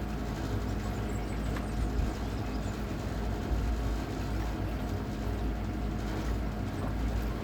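A steady electric hum, typical of the solar-battery trimaran's electric motor running under way, with wind rumbling unevenly on the microphone.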